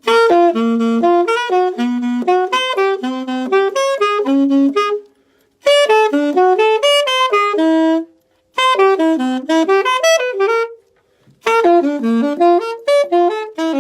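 Alto saxophone playing solo: four phrases of quick notes running up and down, stepping through arpeggio-like patterns, with short breaks between phrases.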